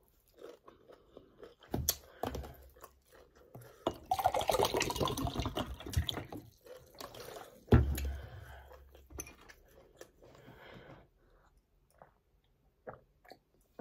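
Close-miked chewing of pounded yam, spinach sauce and prawn eaten by hand, with many small mouth clicks, densest in the middle. Two dull knocks stand out, one about two seconds in and one past the middle.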